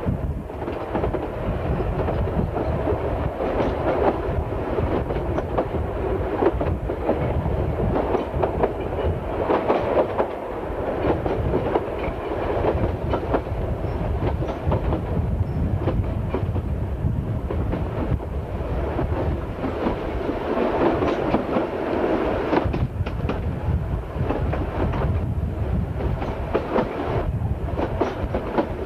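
Narrow-gauge steam train of the Isle of Man Railway running along at speed, heard from a carriage window: a continuous rumble with the clickety-clack of the carriage wheels over the rail joints.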